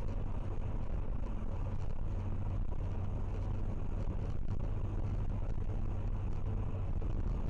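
Steady low rumble of a car driving: engine and road noise, with no crash impact heard.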